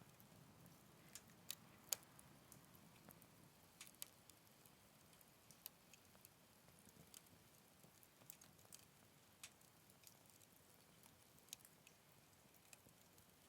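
Wood fire crackling in a Picogrill 398 fire stand: irregular sharp pops and snaps, one louder snap about two seconds in, over a faint steady hiss of the flames.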